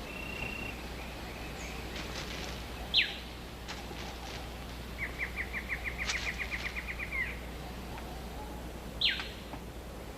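Rainforest ambience with birds calling: a sharp downward-sliding whistle about three seconds in and again near the end, and a rapid run of a dozen or so short chirps in the middle, over a few faint clicks.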